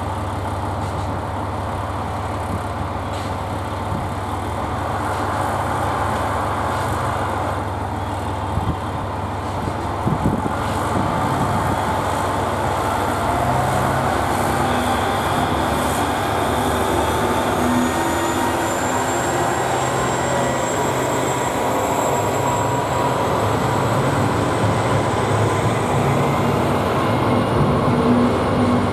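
KiHa 47 diesel railcars' engines running with a steady low hum, a couple of sharp knocks about a third of the way in, then growing louder with a whine that rises in pitch as the train accelerates.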